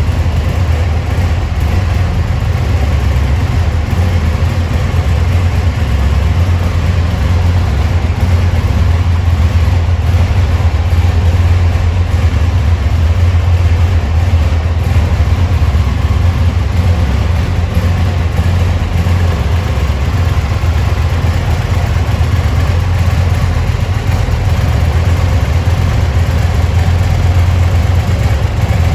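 Aprilia Tuono 1000's V-twin engine idling steadily.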